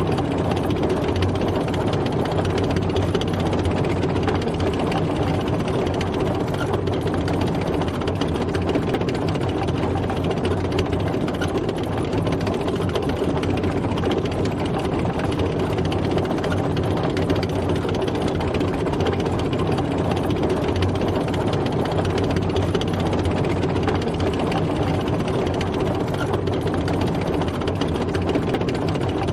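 Tank driving: a heavy engine running with the dense, steady rumble and rattle of the tracks, even throughout with no gear changes or stops.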